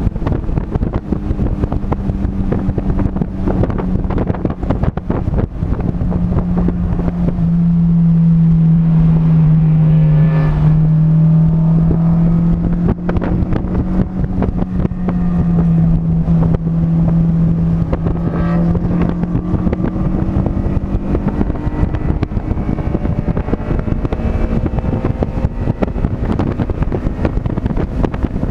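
Onboard sound of a vehicle lapping a race circuit: its engine rises and falls in pitch as it accelerates and slows, loudest in the middle, under steady wind noise on the microphone.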